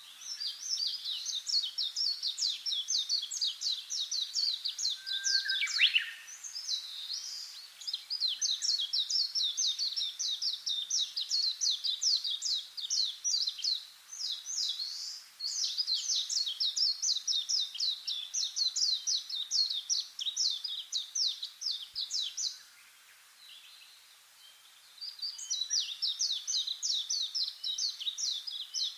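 Rapid, high-pitched chirping, about eight notes a second, in long runs of several seconds with short pauses between them. One lower falling call cuts in about six seconds in.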